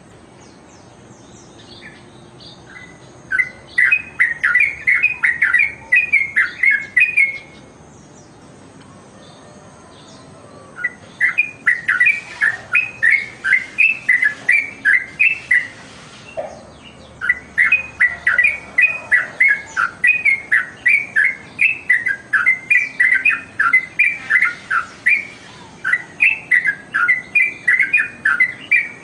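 Trucukan (yellow-vented bulbul) singing in long phrases of quick, bubbling, repeated notes, with short pauses between phrases: four phrases, the longest lasting about eight seconds.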